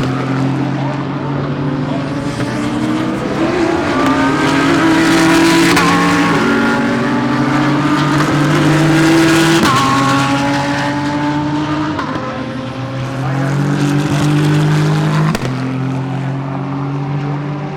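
GT3 race car engines at full throttle, the pitch climbing through each gear and dropping sharply at the upshifts, about four times, with more than one car heard at once.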